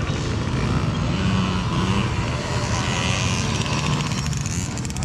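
Several small pit-bike engines running and revving together.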